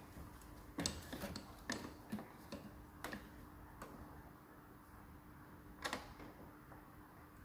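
Scattered light clicks and knocks of hand work with tools and parts, coming thick in the first few seconds and once more about six seconds in, over a faint steady hum.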